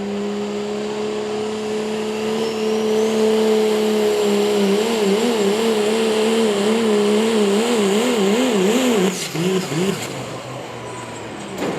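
High-revving engine of a truck or tractor making a pull, held at a steady note that climbs slightly under load. From about four seconds in, its pitch wobbles up and down about twice a second. It drops off about nine seconds in.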